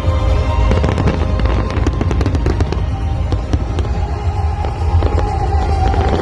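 Fireworks going off in rapid crackling bursts, thickest in the first three seconds, over loud music with heavy bass.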